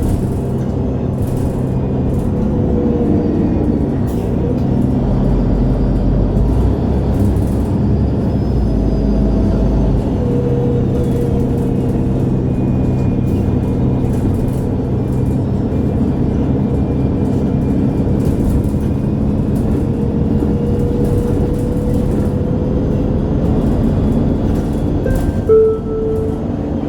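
Interior sound of a MAN Lion's City G articulated diesel bus underway: a steady engine and drivetrain hum, with a deep rumble for a few seconds about a third of the way in and a faint whine that slides down and then back up. A brief tone sounds near the end.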